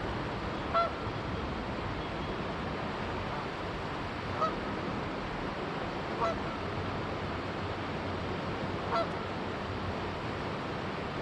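Canada goose honking, four short single calls a few seconds apart, over the steady rush of flowing river water.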